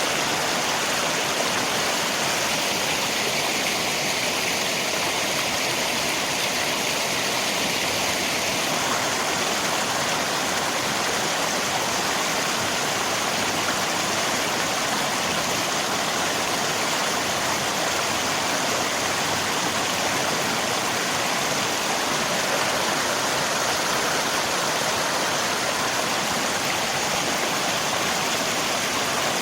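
River water and rain: a steady, even rush of flowing water with no breaks or changes.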